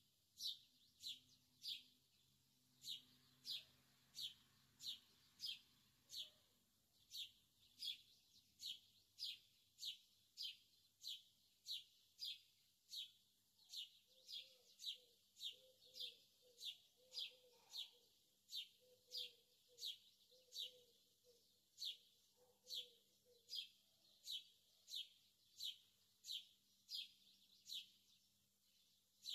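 A small bird chirping over and over, faint and steady: short high chirps that fall in pitch, repeating evenly about one and a half times a second.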